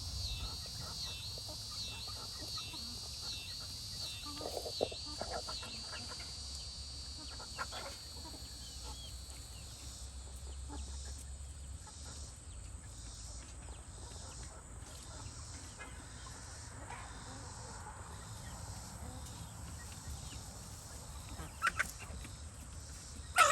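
Backyard chickens clucking softly in the coop over a high, pulsing chorus of insects, with a sharp squawk from a hen near the end.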